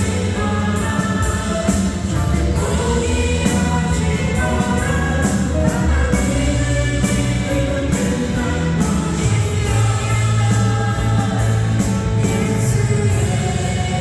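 Worship music: voices singing a praise song over band accompaniment with a steady beat.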